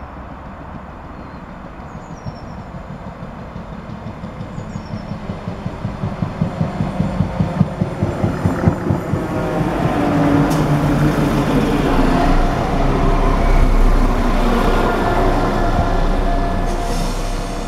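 London Midland Class 172 Turbostar diesel multiple unit approaching and running in alongside the platform, growing steadily louder. A fast rhythmic clatter of wheels over the rail joints comes first, then a steady low engine hum with a whine over it as the train draws level.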